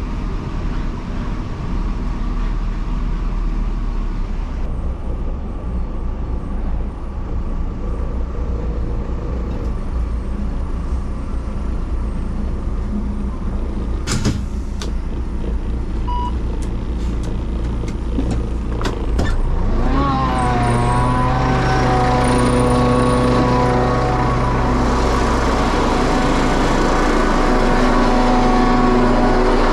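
Scania truck's diesel engine running steadily, with a few sharp clicks; about two-thirds of the way in the engine speed rises and then holds at a higher, steady pitch.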